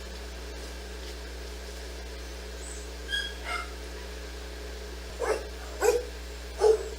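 Dog barking: a short high whine around the middle, then three sharp barks well under a second apart near the end, over a steady low hum.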